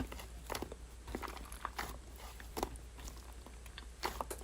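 Slime being pressed and worked by hand, giving scattered small clicks, pops and crackles.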